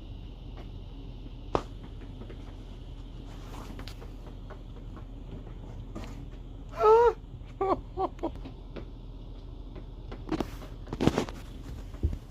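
A house cat chirping: one wavering call about seven seconds in, followed quickly by three short chirps, with scattered clicks and rustles around them.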